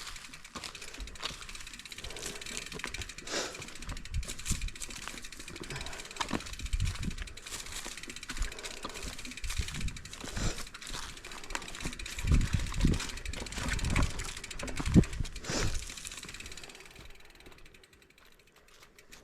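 Mountain bike being ridden over rough trail: the bike's chain and frame rattle and clatter as it goes, with repeated low thumps that are heaviest about twelve to fifteen seconds in. The sound fades away near the end.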